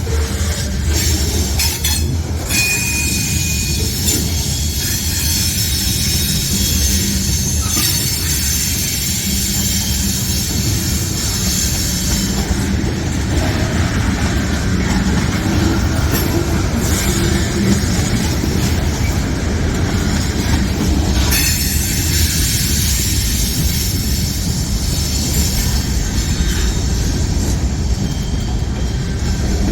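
Freight train cars rolling past, a steady heavy rumble of steel wheels on rail with occasional high-pitched wheel squeal.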